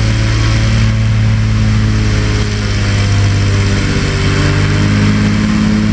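Airboat engine and propeller running steadily at a loud, even speed, a constant engine note under a broad rushing noise, easing slightly a little over two seconds in.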